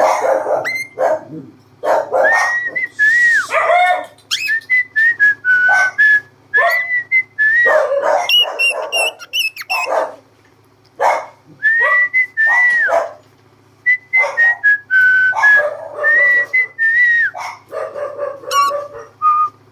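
Cockatiel whistling a tune in short phrases of clear notes that bend up and down, broken up by harsher chattering calls.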